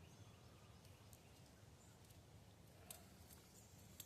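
Near silence: faint outdoor background with a couple of soft clicks, one about three seconds in and one near the end.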